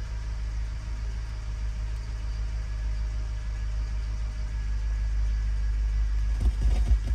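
2005 Chevrolet Tahoe Z71's engine idling steadily, a low hum with a few faint steady tones, with irregular low thumps coming in near the end.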